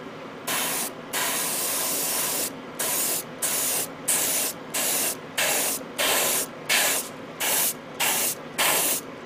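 Airbrush spraying thinned paint in hissing bursts: one long pass, then a run of short trigger pulses, about one and a half a second.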